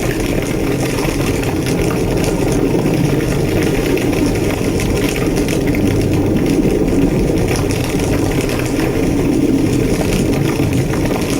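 Large structure fire burning with a steady, deep roar and scattered small crackles.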